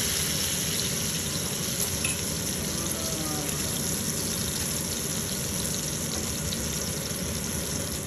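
Breaded chicken cutlets frying in shallow oil in a stainless steel pan: a steady sizzle.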